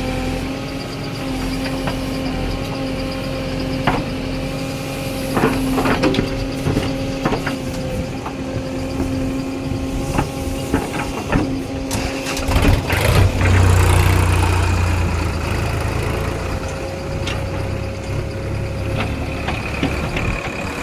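Diesel backhoe loader working, its engine and hydraulics humming steadily, with scattered clanks and knocks from the bucket. The engine grows heavier and deeper from about halfway through, as under load.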